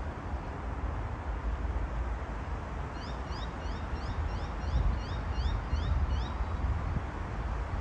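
A bird calling a quick series of short, high rising notes, about four a second, starting about three seconds in and lasting some three and a half seconds, over a steady low rumble.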